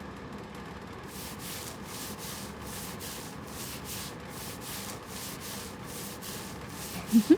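Head massager scratching and rubbing against the microphone, simulating a scalp massage, in repeated scratchy strokes about three a second that begin about a second in.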